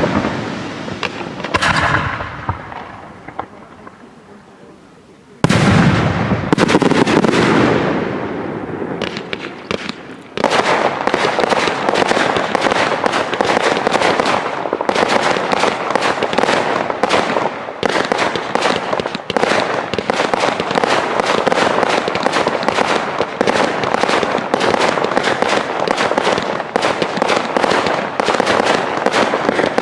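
Aerial fireworks shells bursting, each bang dying away with a long rumbling echo, with two new loud bursts about five seconds in. From about ten seconds in, a continuous barrage of rapid bangs and crackling.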